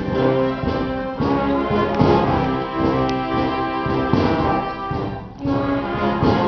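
A theatre orchestra plays a big brass-led passage of show music. There is a short drop in level about five seconds in before the chords come back.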